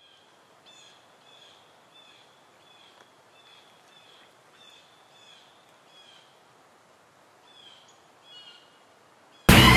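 A bird calling over and over, short high notes about three every two seconds with a brief pause, over a faint outdoor hiss. Near the end, loud guitar music starts abruptly.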